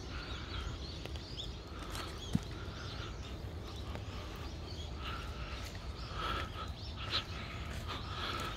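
Birds chirping in short repeated calls over a steady low rumble, with a sharp click about two seconds in.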